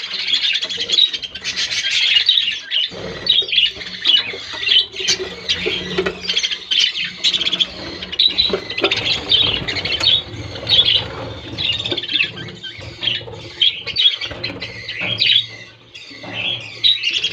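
A colony of budgerigars chattering and squawking, many birds at once with no break.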